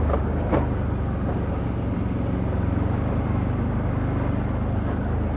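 Can-Am Outlander ATV engine running steadily under way on a trail, with two sharp knocks about half a second apart right at the start.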